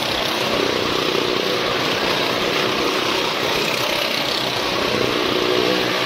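Motorcycle engine running steadily as the bike circles the vertical wooden wall of a Well of Death drum.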